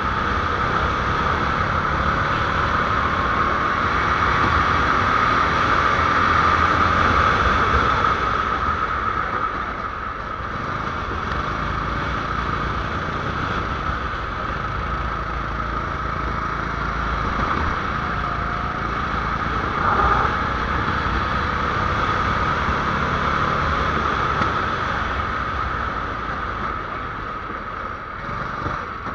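270cc go-kart engine running continuously, its drone steady with the pitch drifting slowly as the throttle changes, a little louder in the first third; a brief knock about twenty seconds in.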